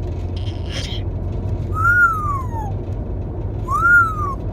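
Parrot calling: a short raspy sound near the start, then two drawn-out calls about two seconds apart, each rising then falling in pitch, over a steady low hum.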